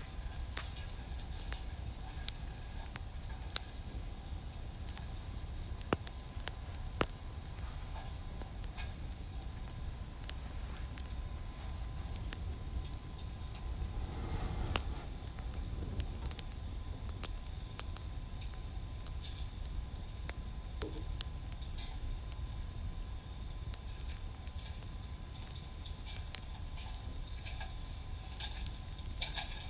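Wood fire crackling: scattered sharp pops, two of them louder about six and seven seconds in, over a steady low rumble.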